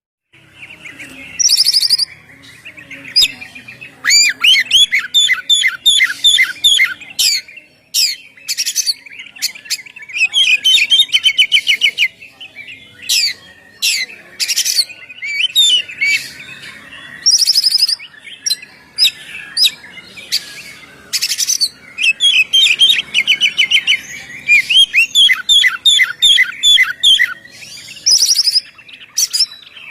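Oriental magpie-robin (kacer) singing continuously: fast trilled runs of rapidly repeated notes alternating with short, sharp high whistles.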